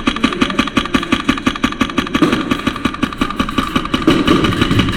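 Airsoft electric gun firing on full auto: a fast, even rattle of about ten shots a second over the whine of the gearbox, kept up without a break.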